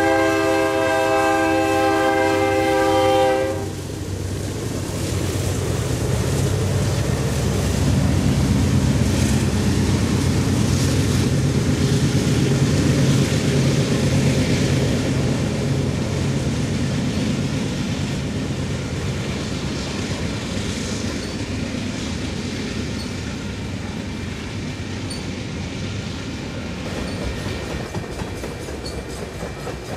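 The horn of BNSF GE C44-9W locomotive 4515 sounds one long chord that cuts off about three and a half seconds in. Then comes the rumble of the passing locomotives and the clickety-clack of a manifest freight's cars rolling by, growing louder and then slowly fading.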